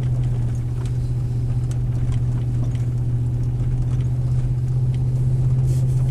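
Vehicle driving a rough road: a steady low engine-and-road drone, with scattered light rattles and knocks.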